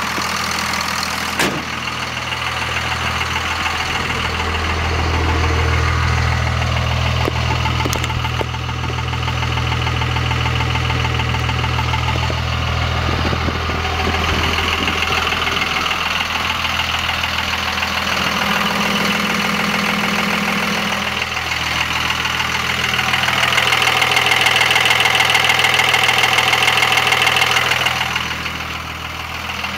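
Cummins 24-valve inline-six turbodiesel idling steadily. Its sound swells and eases twice, with a sharper higher tone over a few seconds near the end. The owner is asking about a weird noise from it, cause unknown. A single sharp click comes about a second and a half in.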